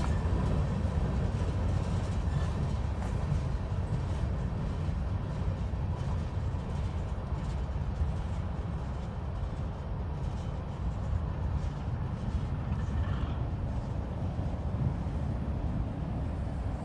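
Freight train rolling away along the track: a steady low rumble that slowly fades.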